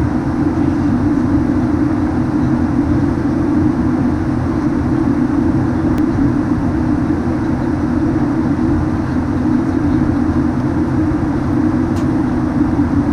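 Steady cabin noise of a Boeing 737-900 heard from inside the passenger cabin: an even rumble of engines and airflow with a constant low drone.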